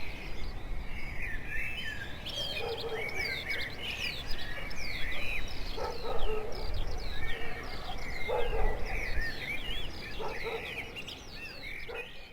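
A chorus of small songbirds chirping and singing, many quick calls sliding down in pitch and overlapping, with a few lower calls every couple of seconds; it fades near the end.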